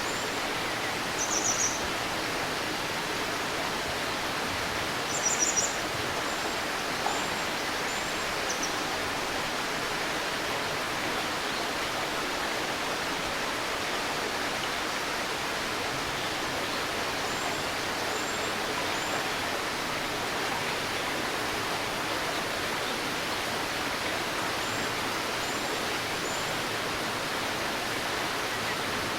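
Babbling river running steadily, with small birds calling over it: two short high trills about a second and a half and five seconds in, and sets of three thin high chirps now and then.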